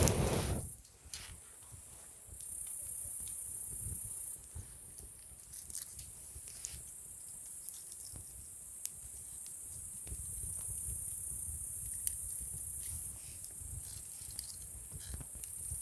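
Wood campfire crackling with scattered sharp pops, one louder pop about twelve seconds in, over a low rumble of the fire that swells and fades.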